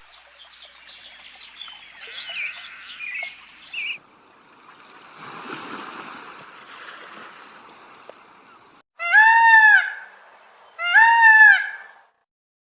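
Birds chirping, then a stretch of running water, then two loud drawn-out animal calls of about a second each, rising and falling in pitch.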